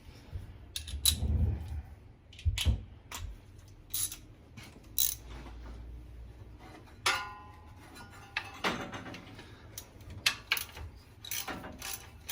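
Hand tools at work on engine bracket bolts: a ratchet wrench clicking, with scattered metal clicks and knocks, a few dull thuds near the start and a ringing metal clank about seven seconds in.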